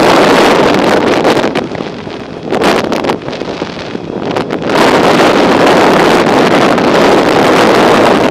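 Wind buffeting the camera's microphone on a moving bicycle: a loud, steady rush of noise that eases for a few seconds after about a second and a half, then comes back strongly about halfway through.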